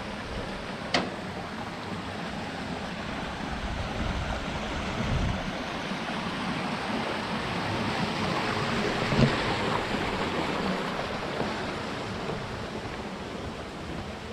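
Rushing water of a mountain stream, a steady hiss that swells a little past the middle, with a sharp click about a second in and a short knock about nine seconds in.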